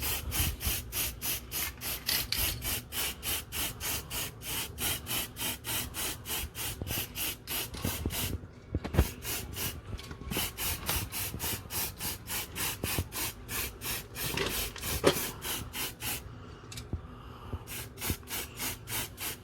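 Aerosol can of silver spray paint at work on a mason jar, giving short, evenly spaced pulses of sound about three times a second, with two brief pauses.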